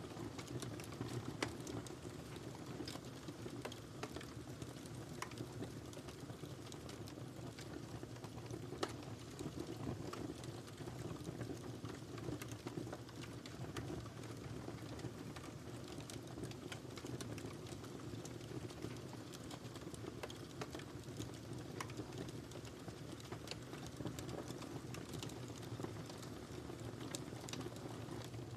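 Wood fire burning in a fireplace: a steady low rumble with a constant scatter of small crackles and pops.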